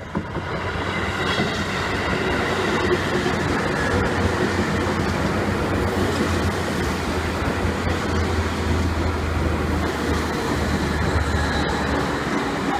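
Seibu Railway 2000-series electric commuter train running past close by, a steady rumble of wheels on rail that builds up over the first second.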